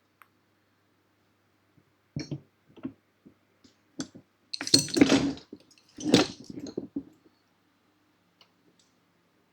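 Clanks and knocks from handling a hydraulic scissor motorcycle lift: a few single knocks, then two short bursts of clattering about five and six seconds in.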